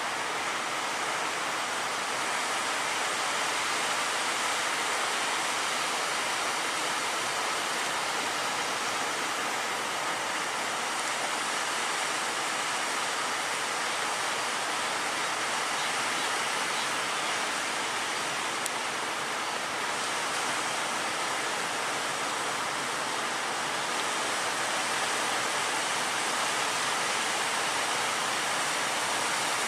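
Steady rushing roar of heavy surf and churning water at a river-mouth inlet, even throughout with no distinct breaks.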